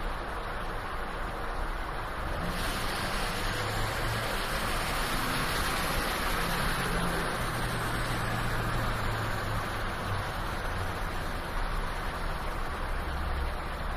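LMM Duramax 6.6-litre V8 turbo-diesel pulling under load, with a steady rush of road and engine noise and a faint high-pitched turbo whistle that rises and then falls about a third of the way in.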